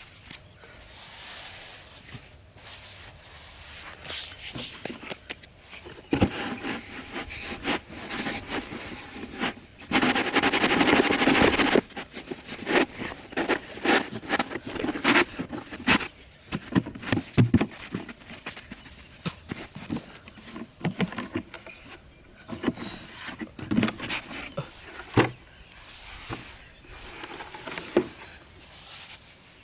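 Hand work on materials: irregular scraping with sharp knocks and clicks, and a steady rasping stretch about ten seconds in that lasts about two seconds.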